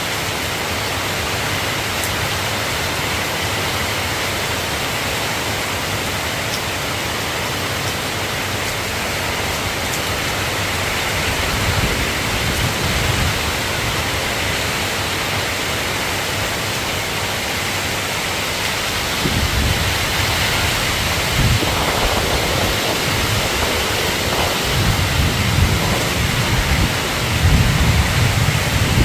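Steady rain, with low rolling rumbles of thunder that come in about twelve seconds in and grow stronger over the last ten seconds.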